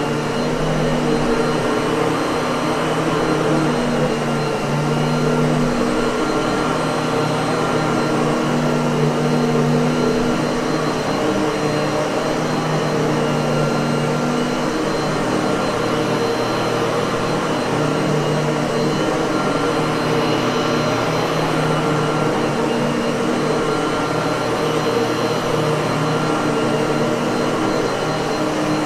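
Miele vacuum cleaner running steadily: a constant rush of air over a low motor hum.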